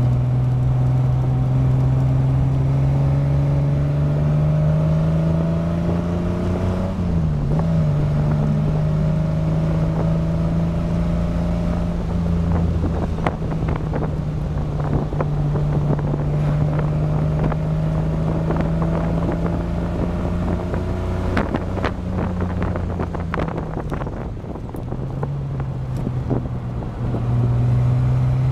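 Triumph Herald 2000's engine pulling hard, heard from inside the cabin: the revs climb slowly, with a quick dip in pitch about seven seconds in. Near the end the engine eases off, drops in pitch and quietens, then picks up and grows louder again, with scattered knocks and rattles from the car over the middle stretch.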